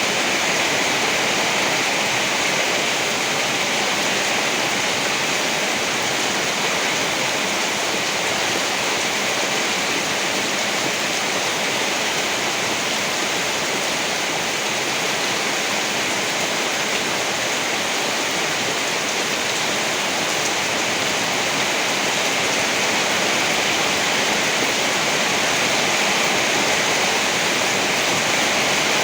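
Steady rain falling, an even hiss that holds level throughout with no thunder claps.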